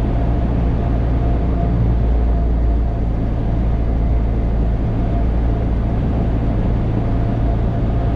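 Steady drone of a light Cessna aircraft's piston engine and propeller, heard inside the cabin, with a low hum and a thin steady whine above it.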